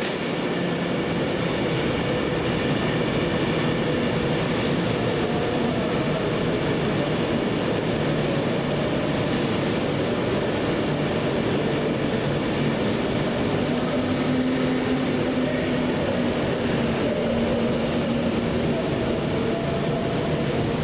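Train running steadily: a continuous rumble of running noise with a low steady hum, and a second hum tone coming in about two-thirds of the way through.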